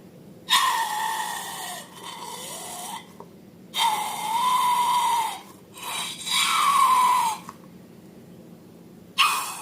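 Air squealing out of a balloon's stretched neck in four separate hissing, wavering squeals, each lasting one to two and a half seconds with short pauses between.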